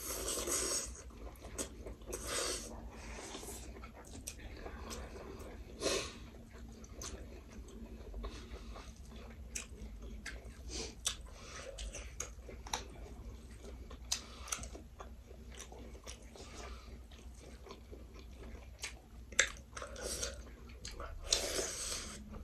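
People eating: close chewing and biting, with scattered short clicks and taps throughout and a few louder clatters.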